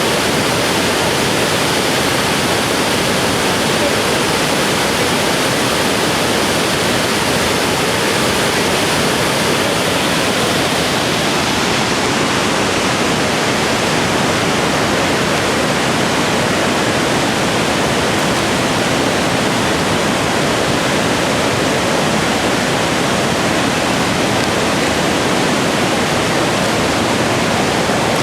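Waterfall: a loud, steady rush of falling water that keeps up without a break.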